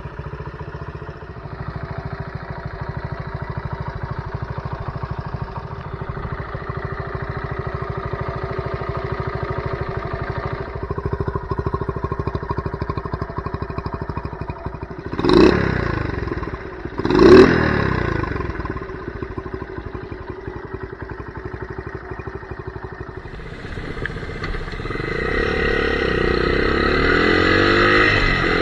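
Honda CT70 Trail 70's small single-cylinder four-stroke engine running steadily, with two sharp throttle blips about halfway through. Near the end it revs up, rising in pitch and loudness.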